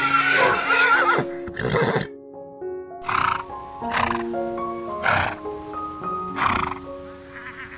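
Background music with steady notes and regular beats, and a horse whinnying with a wavering pitch for about a second near the start.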